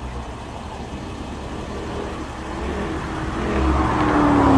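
A car engine growing steadily louder as it comes close, its note sliding down in pitch in the last second as it passes.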